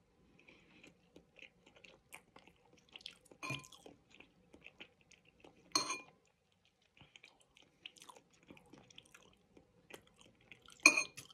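Chewing of udon noodles up close to the microphone, with three sharp clinks of a metal fork against the ceramic bowl, the loudest near the end.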